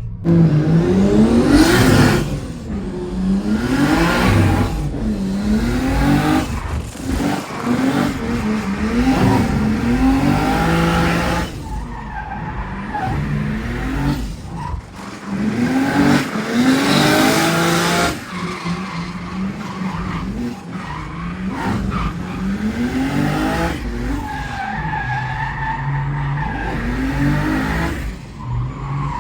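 Turbocharged 2JZ-GTE straight-six in a Hyundai Genesis Coupe, revving up and falling back over and over through a drift, with tyres skidding and squealing. The engine pitch climbs and drops roughly every one to two seconds, and the tyre noise comes in loud surges.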